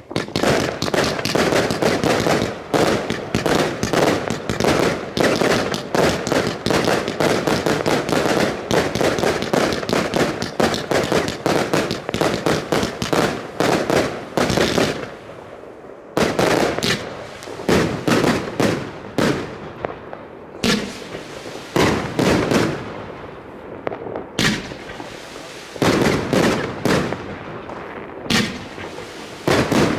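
Consumer F2/F3 fireworks batteries firing: a dense, continuous barrage of rapid bangs for about the first fifteen seconds, then separate volleys of bangs every second or two.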